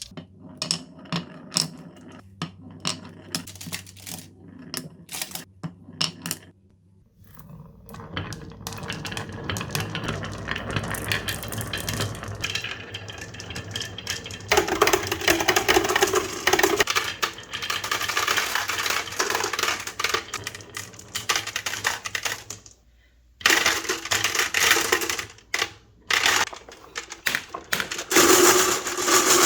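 Marbles rolling and clattering down a rain-gutter and wooden-rail marble run. It starts with scattered clicks and knocks, then becomes a continuous rolling rumble full of clicks, which swells with a ringing tone partway through, and ends with more intermittent clacking and rolling.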